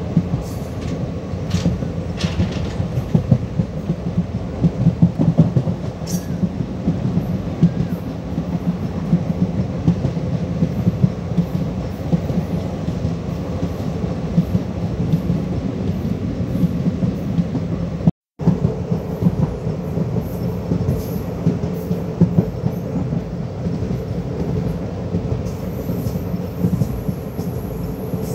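Running noise of an Indian Railways express passenger coach at speed: a steady rumble of wheels on the rails with quick clicks and clatter. It cuts out for a moment about two-thirds of the way through.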